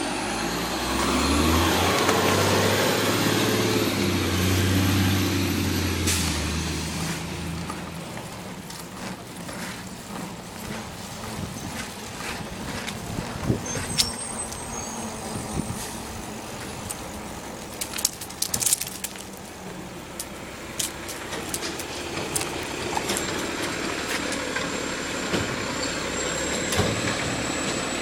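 Garbage truck engine revving for the first several seconds, then settling to a lower steady running, with a few sharp clanks and knocks midway.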